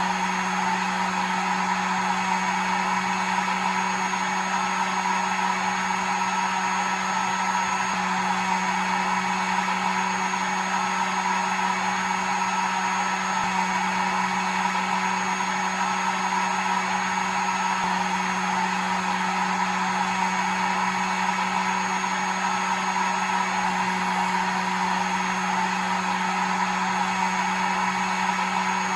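Hair dryer running steadily: an even rush of blown air over a constant motor hum.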